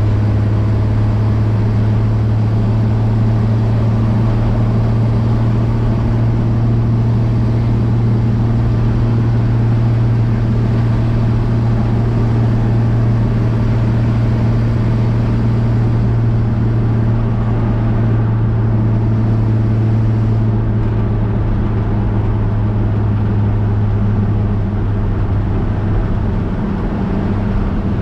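1965 Chevrolet C10's inline-six engine running steadily while driving, a loud even drone heard from inside the cab.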